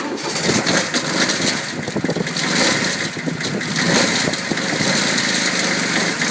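Kubota tractor's diesel engine cold-starting after glow-plug preheat in freezing weather. It catches at once, runs unevenly at first, then settles toward a steadier idle near the end.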